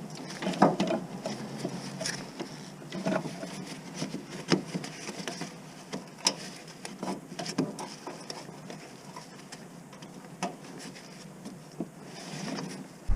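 Scattered light clicks and knocks at irregular intervals, typical of hands working on parts and tools during a clutch job, over a faint steady low hum.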